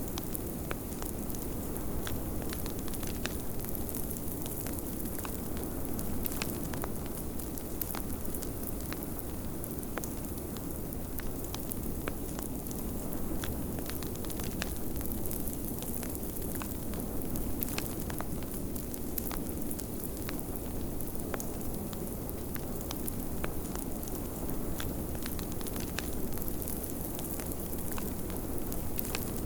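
Wood fire crackling, with many scattered sharp pops, over a steady low rush of blizzard wind.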